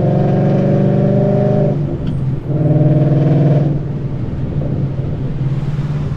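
A 5.0 Coyote V8 with long-tube headers and Roush mufflers, heard from inside the car, running hard under load. The exhaust note drops off briefly about two seconds in, pulls hard again for about a second, then eases to a quieter steady cruise near the four-second mark.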